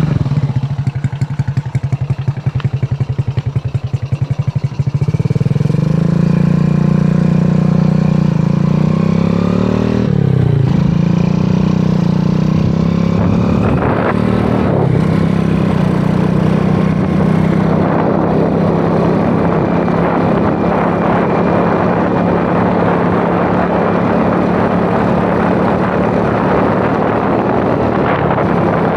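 Honda Astrea Grand's small single-cylinder four-stroke engine chugging at low revs, then revving up about five seconds in as the motorcycle pulls away. The pitch dips briefly about ten seconds in, then the engine runs steadily at riding speed with wind rushing over the microphone.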